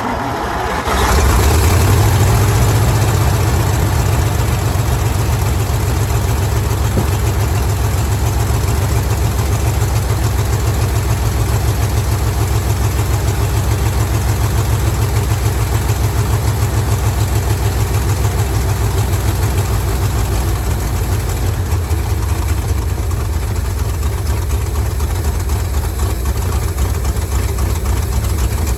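1955 Ford grain truck's engine starting up on a newly hooked-up fuel pump after sitting a long time, coming up in level about a second in and then running steadily.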